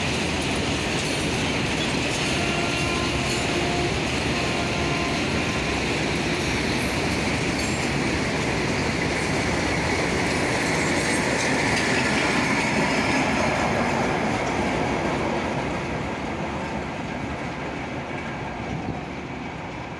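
Freight train's covered goods wagons rolling past on the rails, a steady dense noise of wheels on track with a few faint brief squeals a few seconds in. The sound fades over the last few seconds as the final wagons pass and the train moves away.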